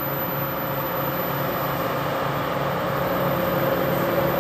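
DR class V100 diesel-hydraulic locomotive running with a steady engine drone, growing slowly louder.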